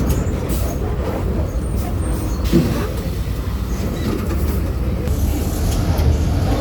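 Volkswagen 17-230 OD city bus heard from inside the cabin while driving: a steady low diesel engine rumble with road and body rattle noise. About two and a half seconds in there is a brief knock with a short squeak.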